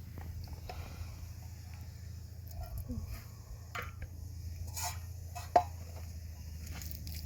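Scattered light clicks and knocks, like things being handled, with one sharper click about five and a half seconds in, over a steady low hum.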